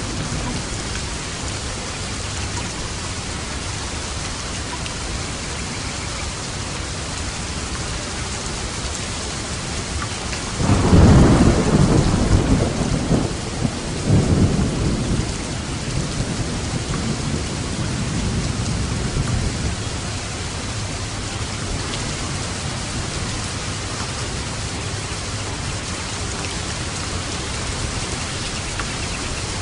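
Steady rain falling, with a clap of thunder about a third of the way in that rumbles for several seconds and dies away.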